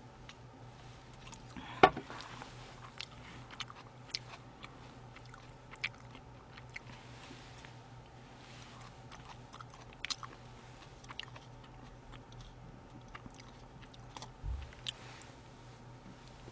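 Close-miked eating of sushi: soft chewing and small wet mouth clicks. A single sharp knock about two seconds in stands out as the loudest sound, and a short low thump comes near the end.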